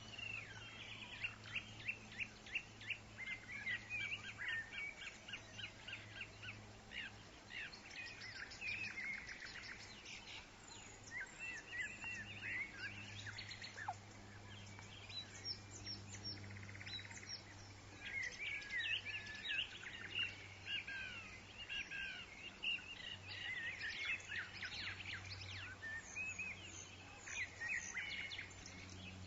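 Woodland birds chirping and singing, many quick overlapping calls and trills that thin out briefly about halfway through, over a steady low rumble.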